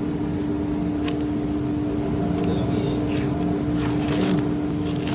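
Steady machine hum with a constant pitch, with a few short rustling, hissing noises about a second in, again around three to four seconds in, and near the end.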